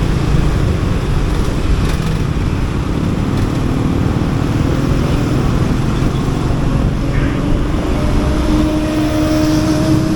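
Motorcycle engine running and road and wind noise while riding through slow city traffic. Over the last few seconds an engine note rises slowly in pitch as the bike picks up speed.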